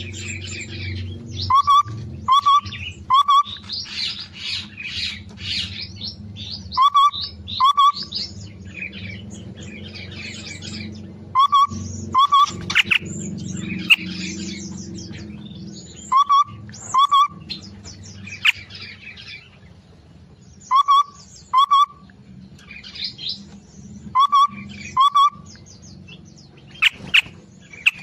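Cage birds, cucak mini and cucak ranting, chirping and chattering continuously. A loud, short two-note call repeats every couple of seconds. A steady low hum runs underneath.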